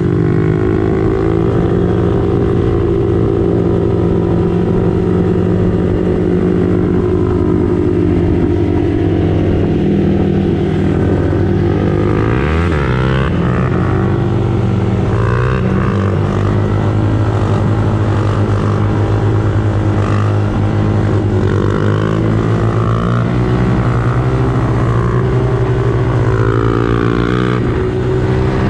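Motorcycle engine and exhaust running steadily while riding. The pitch drops and climbs again about twelve seconds in, and eases off near the end as the throttle changes.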